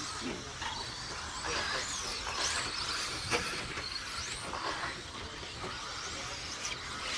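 Radio-controlled stock-class short course race trucks running on the track, their motors whining up and down in pitch several times as they accelerate and slow through the corners.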